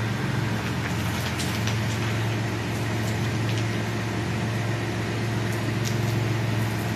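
Jeep Cherokee engine idling steadily, with a few faint clicks of loose rock.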